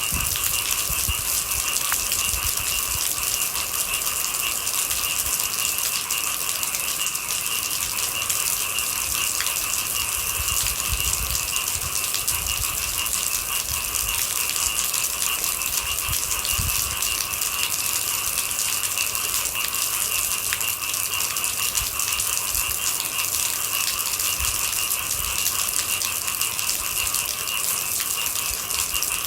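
Steady rain falling, a dense even pattering, with a constant high-pitched hum running underneath it.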